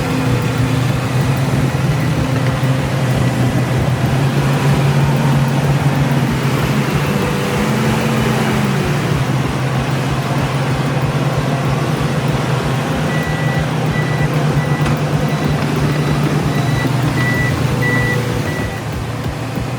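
Heavy vehicle engine running with a steady low drone, its pitch rising and falling briefly about eight seconds in. In the second half a vehicle's reversing beeper sounds, a high beep about twice a second.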